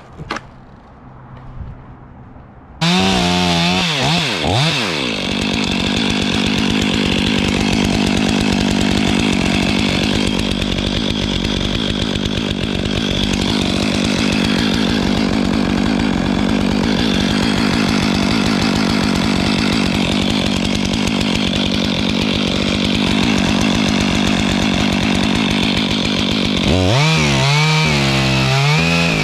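Stihl 500i two-stroke chainsaw starting a cut about three seconds in: it revs up, then runs steadily at full throttle under load through the cedar spar for over twenty seconds, its pitch rising and falling again near the end.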